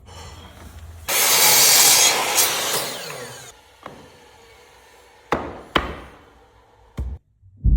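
Wood being sawn for about two and a half seconds, then a few separate knocks.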